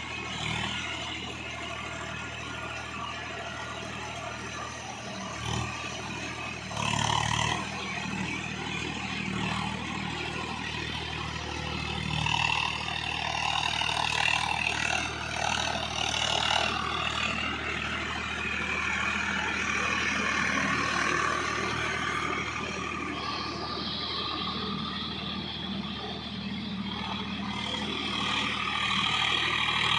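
Swaraj tractor's diesel engine running steadily, with brief rises in loudness now and then.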